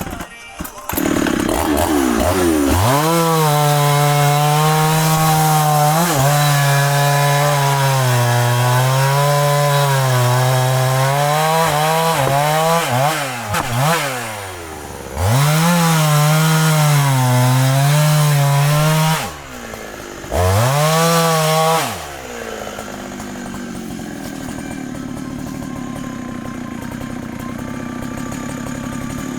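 Large two-stroke Husqvarna chainsaw running at full throttle through wood, its pitch sagging and recovering under load. It drops off throttle twice and revs up again, then settles to a quieter steady idle for the last several seconds.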